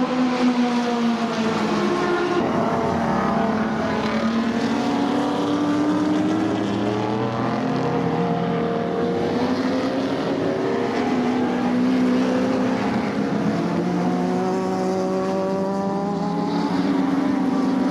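Several late-1960s and early-1970s Group Nc racing cars running on track. Their engines rev up and down through gear changes, with several engine notes overlapping.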